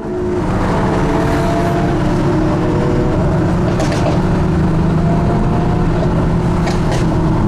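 Car engine running at a steady, unchanging pitch, with three brief sharp clicks, one about four seconds in and two close together near the end.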